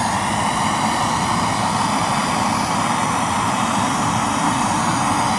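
Blowtorch flame burning with a steady roar while it heats the inner race of a new pinion bearing, expanding it so it will drop onto the shaft.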